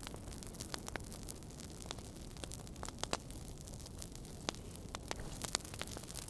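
Wood fire burning in a fireplace: a steady low rumble and hiss with irregular sharp crackles and pops, a few louder snaps standing out.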